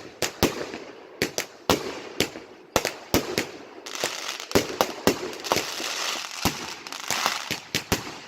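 Fireworks going off: a quick, irregular series of sharp bangs and pops with crackling between them.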